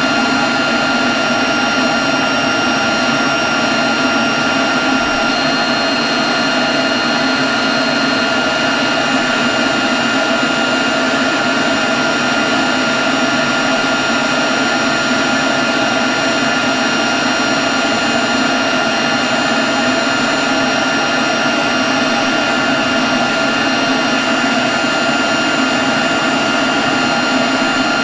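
Leaf blower running at a constant speed: a steady rush of air with a high, unchanging whine.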